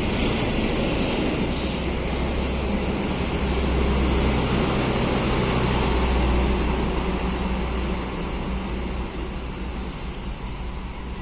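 A train passing through the station: a loud, steady low rumble that builds to its peak about halfway through and then fades away.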